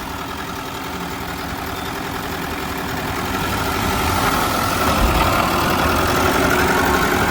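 Heavy diesel engine of earthmoving machinery running steadily and getting gradually louder, with a whine that strengthens from about halfway through.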